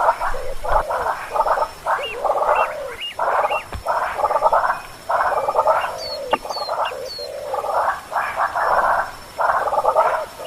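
Repeated harsh, raspy animal calls, about one a second, with a few short high chirps among them.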